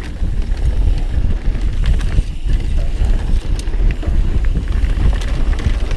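Mountain bike riding down a rough dirt trail: tyres rolling over rocks and ruts with scattered clicks and knocks from the bike, and a heavy low rumble of wind on the camera microphone.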